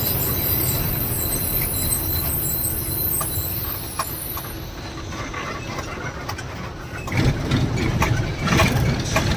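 Road and engine noise inside a moving lorry's cab: a steady low rumble, with a high hiss over the first few seconds and a few short knocks. The rumble grows louder near the end.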